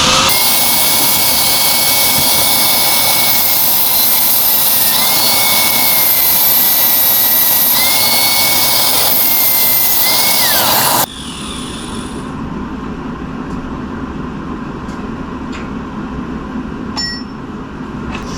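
Grinder with a cutoff wheel cutting through a steel exhaust hanger: a loud, high whine that sags in pitch a few times as the wheel bites, then stops abruptly about eleven seconds in, leaving a quieter steady background noise.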